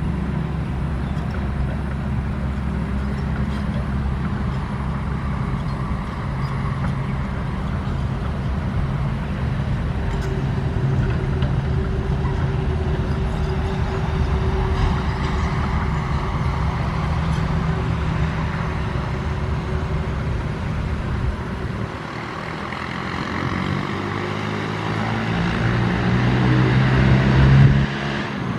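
Diesel engines of heavy earthmoving machinery running steadily under load. Near the end an engine revs up, rising in pitch and loudness, then drops off suddenly.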